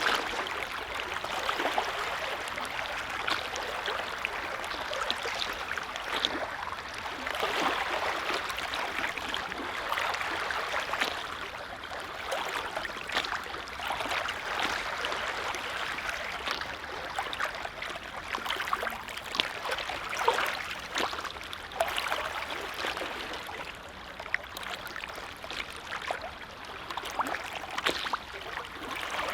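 Waves on a calm lake lapping and splashing: a steady wash of water broken by many short splashes.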